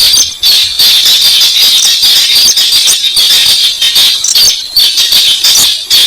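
Recorded weris bird calls played back as a hunter's lure: a fast, continuous, harsh rattling chatter, high in pitch, repeated without pause.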